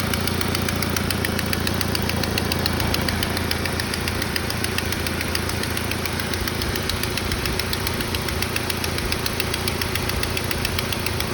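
Saab 9-5 B235E 2.3-litre turbo four-cylinder idling with a fast, even ticking knock from under the valve cover near cylinder 4. It is a cold-engine knock that the owner says goes away once the engine is warm.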